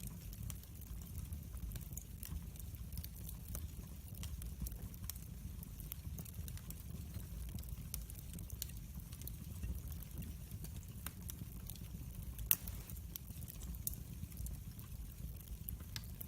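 Wood fire burning in a fireplace: a steady low rumble of flames with scattered crackles and pops, one louder snap near the end.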